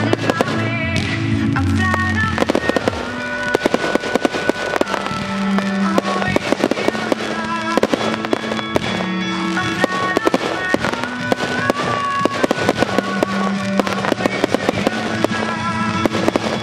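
A fireworks display firing a dense, continuous run of bangs from rising comets and bursting shells, with music playing underneath.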